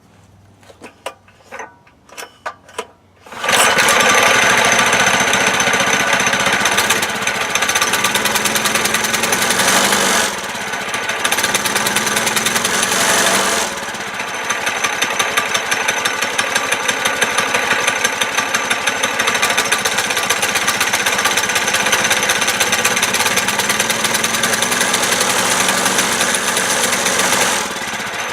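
Mini bike's small four-stroke engine being pull-started: a few short clicks and rattles from the recoil starter, then it catches about three and a half seconds in and runs with a fast, even beat, its speed dipping briefly twice. It is running with the choke still on.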